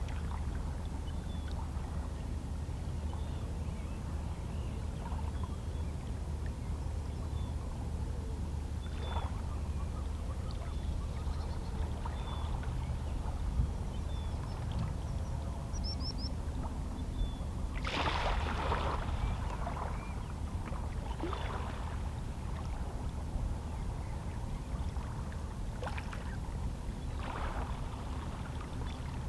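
Small calm-sea waves lapping and splashing against shoreline rocks over a steady low rumble, with an irregular splash every few seconds, the largest about eighteen seconds in. Faint short seabird chirps recur in the distance.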